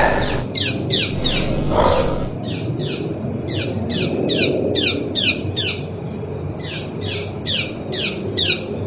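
A bird chirping in a rapid string of short, downward-sliding chirps, about three a second, over a low rumbling background. Two dull low thumps come at the start and about two seconds in.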